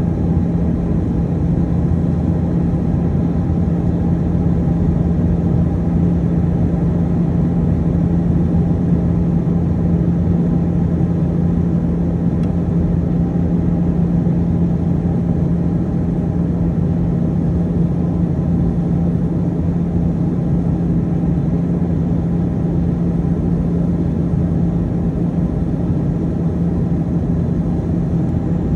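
Steady cabin noise of an Airbus A320-212 in flight: the even hum of its CFM56 engines with a constant low drone and the rush of air past the fuselage, unchanging throughout.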